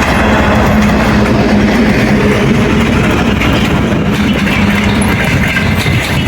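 Passenger train hauled by a TEP70 diesel locomotive passing close by: a loud, steady rumble of wheels on the rails, with a droning hum that fades out about five seconds in.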